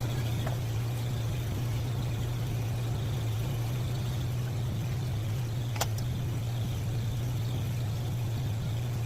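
Steady, even hum of a shop air conditioner running, with a single sharp click about six seconds in.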